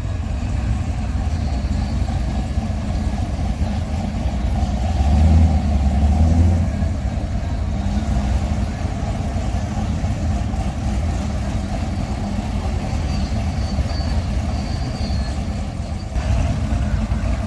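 A car engine running with a steady low rumble, swelling louder for a moment about five seconds in.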